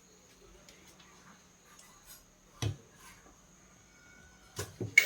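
Light clicks and taps of parts and tools being handled between drill runs, with one dull knock about two and a half seconds in, over a faint steady hum.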